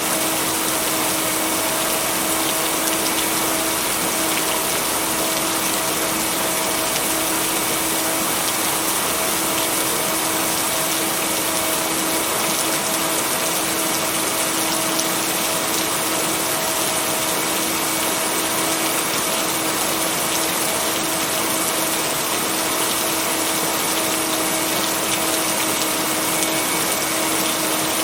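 Steady heavy rain with an even hiss that does not change, and a steady low hum tone held underneath, typical of a blended binaural-beat tone.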